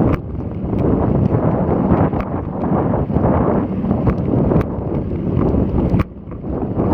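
Wind buffeting an action camera's microphone during a ride, a heavy rumble that surges and eases, with scattered sharp clicks through it.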